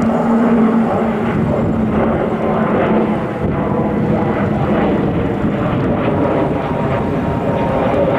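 Airbus A320neo jet engines at takeoff thrust: a loud, steady roar with a low humming tone that fades about six seconds in.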